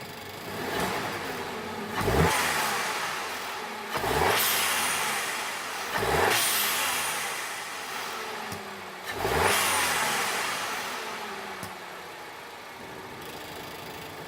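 Turbocharged 1.8 TSI four-cylinder in a VW Golf Sportwagen idling, then revved: a small blip, then four sharp revs. Each is followed by the pshh of a Torque Solution blow-off valve adapter venting boost as the revs drop back to idle.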